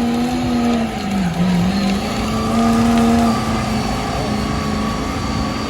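Engine of an off-road vehicle running hard at high revs. Its pitch dips briefly about a second and a half in, then holds steady and high.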